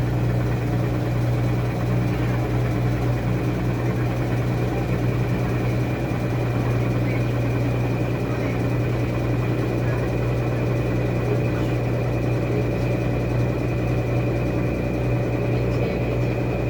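Washing machine running: a steady motor hum with a faint high-pitched whine on top, unchanging throughout.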